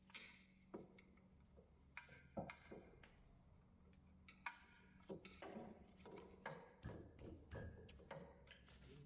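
Faint, scattered clicks and knocks of hand tools against metal while the sump pan is worked loose from the engine block. There are a few early on, then they come more often from about halfway.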